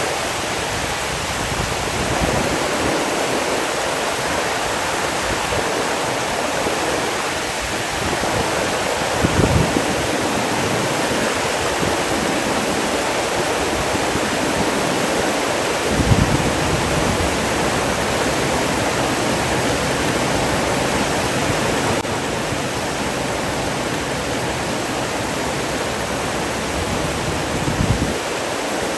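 Water rushing steadily, as from a waterfall or fast stream, with three brief low thuds spread through it.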